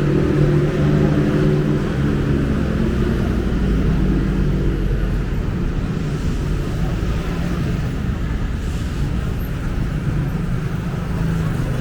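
City road traffic with a low steady rumble, and a motor vehicle's engine humming close by, its tone strongest in the first few seconds and again later on.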